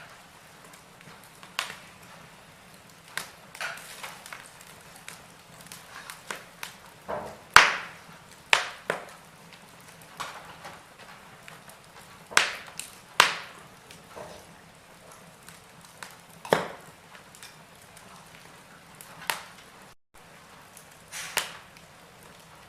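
Wood fire in a fireplace crackling: irregular sharp pops and snaps of varying strength over a faint steady hiss, the loudest pops coming about a third of the way in and again a little past halfway.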